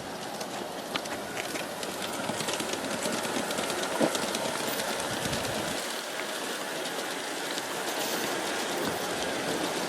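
G-scale model passenger train rolling along outdoor garden-railway track: a steady rolling noise with scattered clicks from the wheels, growing slightly louder as it comes closer.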